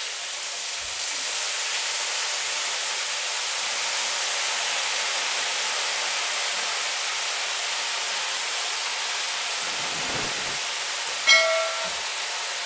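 Steady sizzling of sardines and fried tofu frying in a wok while chopped pechay leaves are piled in. A short, loud ringing tone sounds once about a second before the end.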